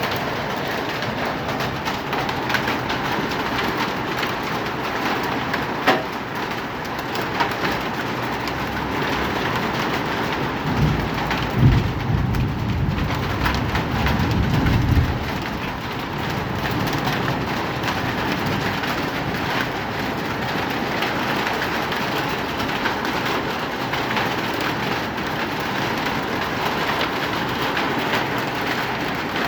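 Heavy hail pelting down, a dense steady patter of countless small impacts. A low rumble comes in for a few seconds about a third of the way through.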